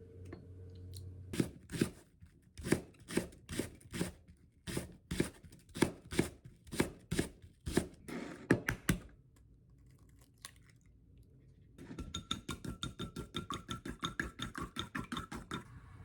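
A run of rhythmic scraping strokes, about two a second, then after a short pause a faster run of quicker, lighter strokes with a faint ringing tone.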